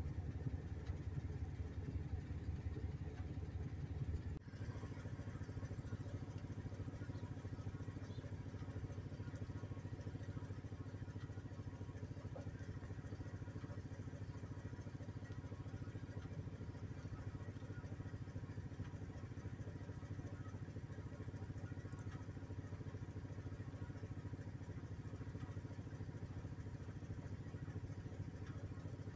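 A vehicle engine idling, a steady low rumble that drops slightly in level about four seconds in.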